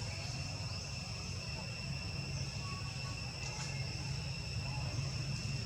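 Insects trilling steadily in several high, unbroken tones over a low, even rumble.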